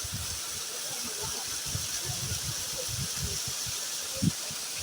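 Steady rushing hiss of flowing water, with irregular low rumbles underneath and a single short knock about four seconds in.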